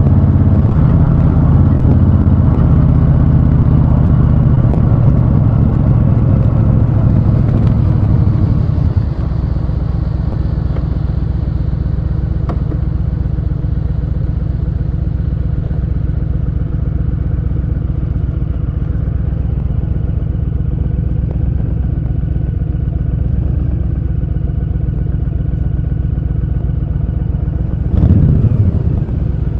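Honda Fury's V-twin motorcycle engine running, loud and heavy for about the first nine seconds, then dropping to a steady lower beat. Near the end it gives one short rev before settling again.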